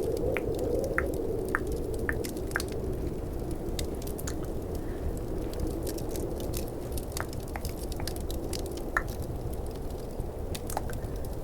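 Tongue clicks, short hollow tocks about twice a second for the first few seconds and then more scattered. Under them runs a steady low rush of snowstorm wind with faint fireplace crackle.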